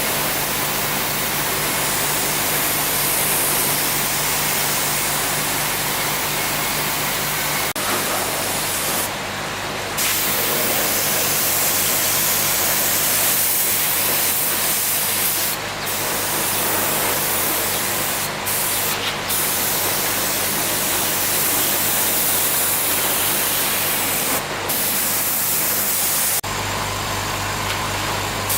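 Steady, loud spraying hiss over a low machine hum, with the hum shifting in pitch at a couple of abrupt changes.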